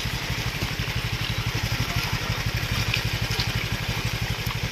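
Motorcycle engine idling with a rapid, even putter, over a steady hiss.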